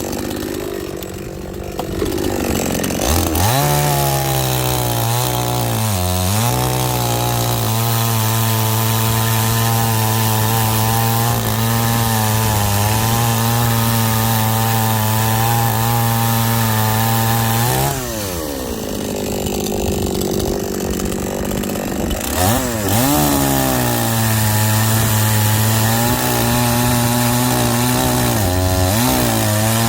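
Chainsaw cutting firewood logs. The engine holds a steady high pitch under load, dips and revs back up several times between cuts, and falls back to a lower, rougher run for a few seconds about two-thirds through before revving up again.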